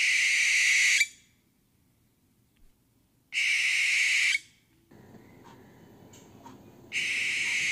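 Parrot screeching: three harsh calls of about a second each, a few seconds apart.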